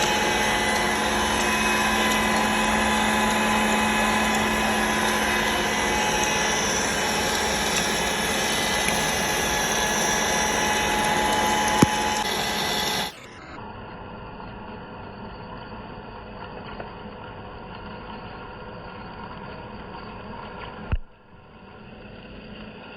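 Metal lathe turning a steel shaft: a loud, steady machining whir with several held tones. About thirteen seconds in it cuts off abruptly to a much quieter steady hum, with one sharp click near the end.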